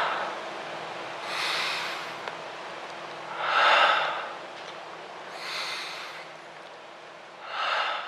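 Dancers' heavy, rhythmic breathing: a loud breath about every four seconds, with a softer, higher-pitched breath between each pair, over a faint steady low hum.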